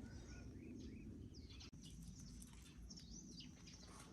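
Faint, scattered short bird chirps over a low, steady background noise.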